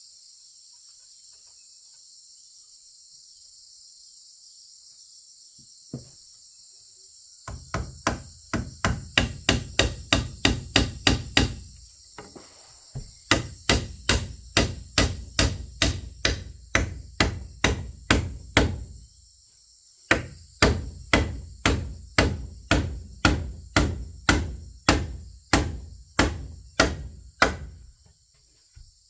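A hammer striking wood in three quick runs of blows, starting about a quarter of the way in, with short pauses between runs. A steady high chorus of insects runs underneath.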